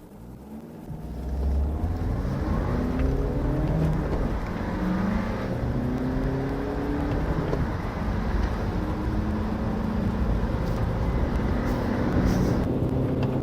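Car engine accelerating hard from a standstill. The pitch climbs in each gear and drops back at each of several gear changes.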